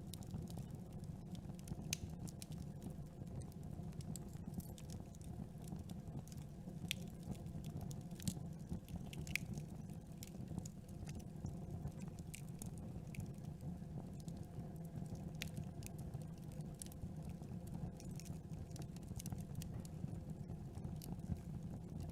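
Wood campfire burning, with a steady low rush of flame and irregular sharp crackles and pops from the burning wood.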